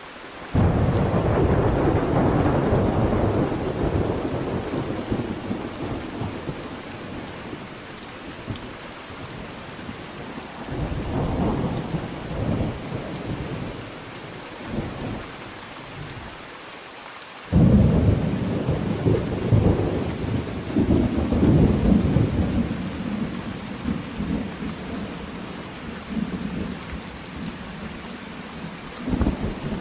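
Thunderstorm: steady rain falling with rolling thunder. A rumble breaks in suddenly at the start and fades over several seconds, a weaker one rolls through in the middle, and the loudest peal cracks in abruptly about two-thirds of the way in and rumbles on for several seconds.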